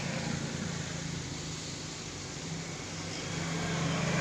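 Steady low mechanical hum over background noise, swelling slightly near the end, with no distinct clicks or knocks.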